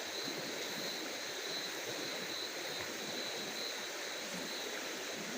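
Steady outdoor night ambience: an even hiss with a thin, steady high-pitched tone running through it and no distinct events.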